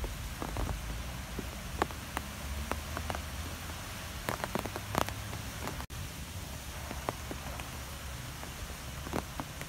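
Steady rain from a thunderstorm, an even hiss with many scattered sharp ticks of nearby drops and a low rumble underneath. The sound drops out for an instant about halfway through.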